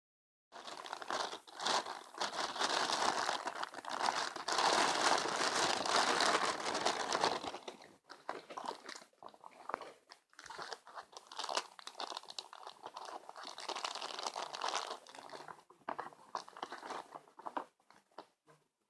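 Close rustling and crinkling of something being handled near the microphone, dense for the first several seconds, then thinning to scattered crackles and clicks.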